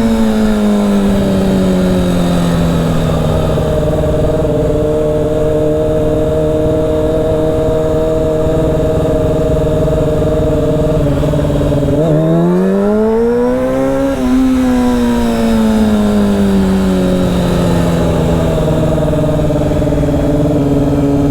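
Honda CBR600 sport bike's inline-four engine under way: the engine note drops as the throttle is rolled off, then holds steady while cruising. About twelve seconds in it revs up quickly, then eases back down to a steady cruise.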